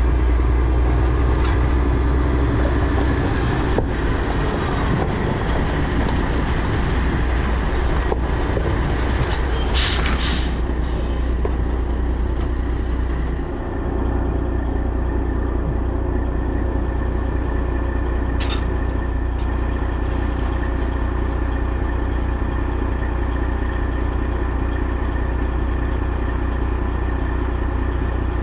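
Semi truck running down the road, a steady deep engine drone with road and cab noise. A short hiss comes about ten seconds in, and the sound dips briefly just before the halfway point.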